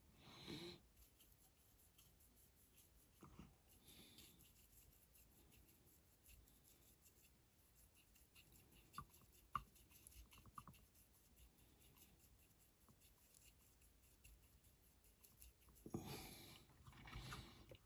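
Faint scratchy strokes of a small paintbrush laying Humbrol enamel onto a die-cast model car body, with a few light clicks in the middle. The strongest strokes come just after the start and near the end.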